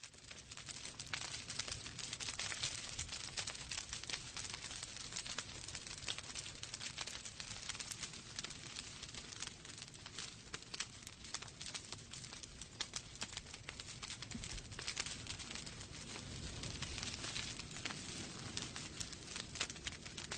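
Wood fire burning in a fireplace, crackling: a steady hiss of flames with many sharp, irregular pops and snaps from the burning logs.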